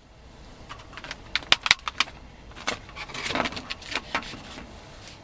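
Short sharp clinks and knocks of metal gear being handled, a quick cluster about a second and a half in and more scattered ones a second or two later.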